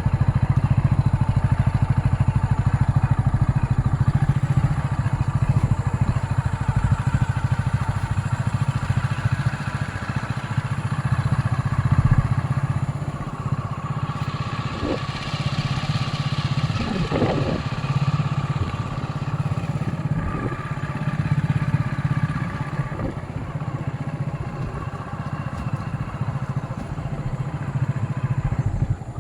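A motorcycle engine running steadily while riding.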